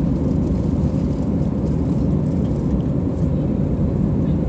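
Steady low roar of an airliner cabin in flight: engine and airflow noise.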